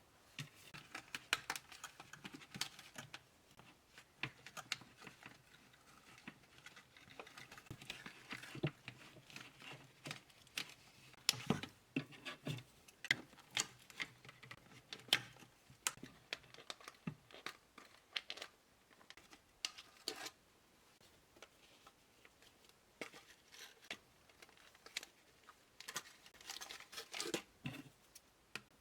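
Irregular clicks, crinkles and scrapes of a boxed doll's cardboard and plastic packaging being handled and opened by hand, with a few sharper snaps here and there.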